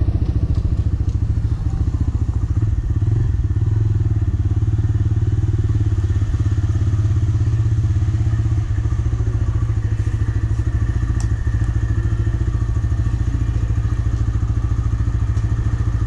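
TVS Raider 125's single-cylinder engine running steadily at low revs, its exhaust pulses even throughout, with a faint click about eleven seconds in.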